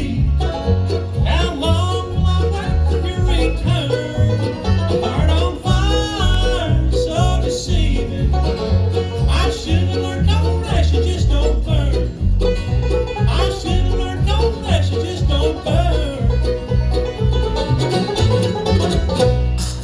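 Bluegrass band playing live: banjo and guitar over a pulsing bass line, with a bending melodic lead. The tune closes on a final stroke near the end.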